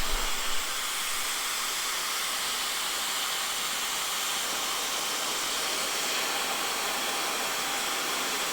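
Dyson hair dryer with its concentrator nozzle blowing steadily, an even, unbroken airflow hiss.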